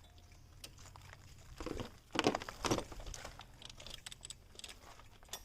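Metal hand tools clicking, clinking and scraping as a ratchet and plug spanner work on the car engine's spark plugs, with a few louder rattling scrapes about two seconds in.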